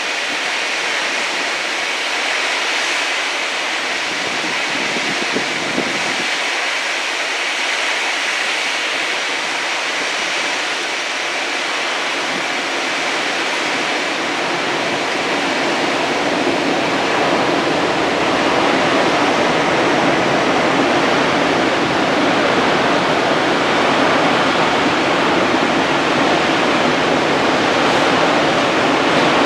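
Steady rushing noise with no distinct events, growing fuller and deeper from about halfway through.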